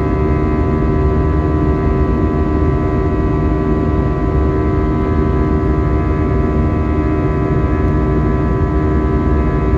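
Steady cabin noise of an Airbus A320 in flight, its IAE V2527-A5 turbofan engines running with several steady whining tones over a low rumble.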